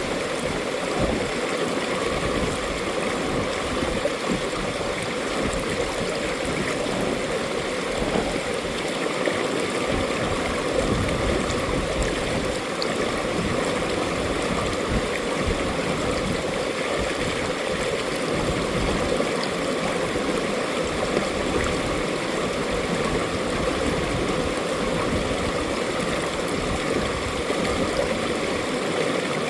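Valley stream rushing steadily: an even, unbroken flow of water with no pauses or changes.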